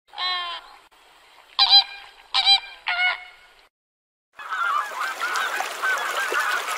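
Farm animal calls: a short bleat, then three separate short bird calls, and after a brief pause a whole flock of farm birds calling at once in a dense, continuous chorus.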